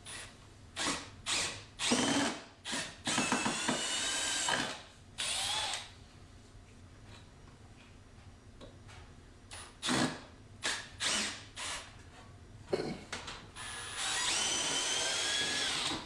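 Cordless drill-driver run in short trigger bursts and a few longer spins, the motor whining up to speed each time. It is backing out a Torx screw whose head is stripping.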